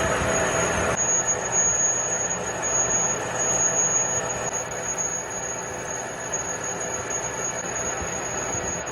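Steady machine noise with a high squeal running through it, changing character about a second in.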